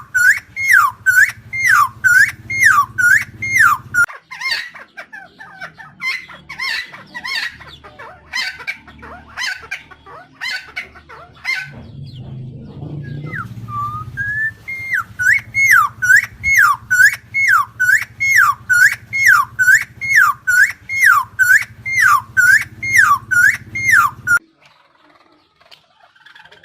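Helmeted friarbird (Philemon buceroides) calling its repeated loud note, each one dipping in pitch and rising again, about two a second. The runs are broken by a stretch of quicker, mixed notes, and the calls stop suddenly near the end.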